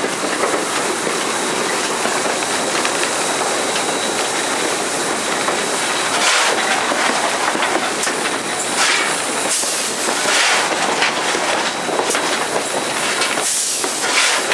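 Heard from inside the cab of Southern Railway #630, an Alco 2-8-0 steam locomotive: the steady rattle and rush of the working engine, with louder bursts of steam hiss a few times.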